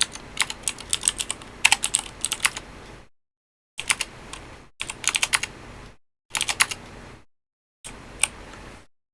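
Typing on a computer keyboard: about five bursts of quick key clicks, with the sound cutting out completely in the short pauses between them.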